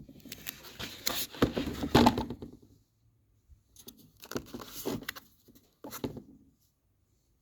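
Handling of a compression tester kit: metal fittings and a hose clicking, rattling and scraping as they are picked out. The sounds come in a few irregular bursts, with a short pause about three seconds in.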